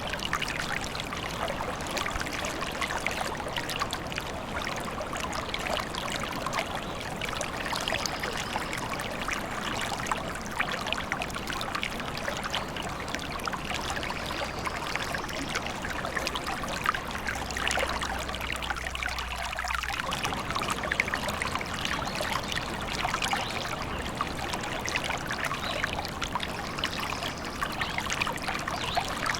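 A small forest stream babbling and trickling steadily over stones.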